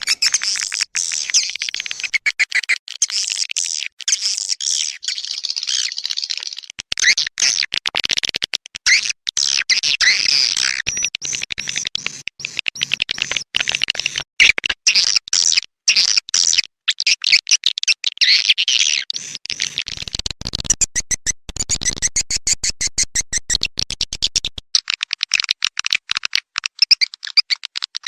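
Swiftlet calls: a continuous, dense, high-pitched chatter of rapid chirps and clicks. It is a swiftlet lure recording ('suara panggil'), the kind played in swiftlet nesting houses to call the birds in.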